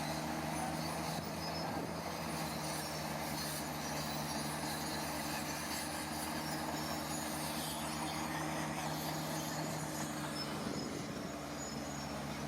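Heavy diesel earthmoving machine running steadily under load, a low, even engine note with metallic clatter and hiss above it, the note wavering briefly near the end.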